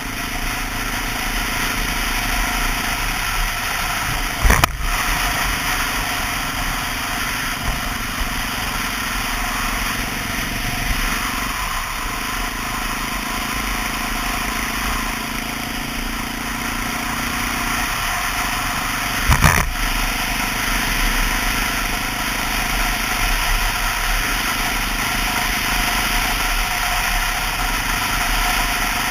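A 2002 Honda XR650L's single-cylinder four-stroke engine running steadily while under way, under a constant rush of riding wind and road noise. Two brief sharp knocks, about five seconds in and again about twenty seconds in.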